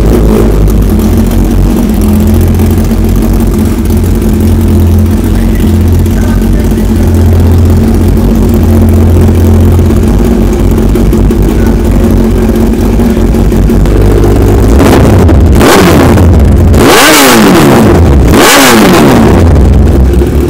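Kawasaki Ninja sport-bike engine idling loudly and steadily, then blipped through several sharp revs near the end, its pitch rising and falling with each.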